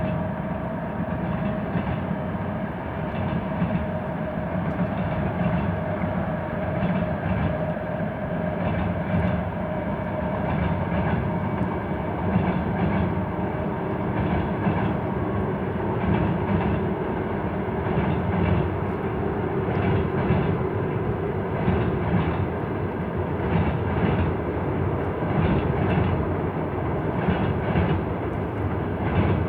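Freight train rolling across a steel rail bridge: a steady rumble with wheels clacking over the rail joints again and again.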